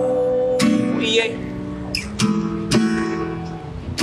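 Acoustic guitar strumming chords between sung lines, a few strokes each left to ring on. A held sung note trails off about a second in.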